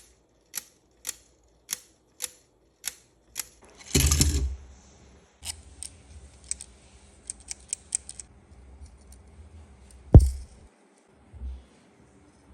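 Plastic parts of a 3D-printed gravity-driven lever mechanism clicking and clattering: six sharp clicks about half a second apart, a brief clatter about four seconds in, scattered lighter clicks, then one loud knock about ten seconds in.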